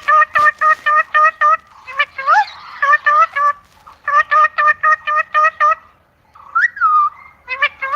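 Parrot calling in quick runs of short, evenly spaced squawks, about five or six a second. The runs break off briefly around six seconds in, then a single rising and falling call comes before another run starts near the end.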